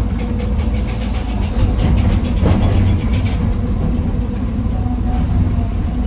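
Heavy diesel machinery running steadily at a low rumble. For the first three seconds or so a rapid rattling clatter rides over it, loudest about two and a half seconds in, from a dig-and-load cycle of andesite stone into a dump truck.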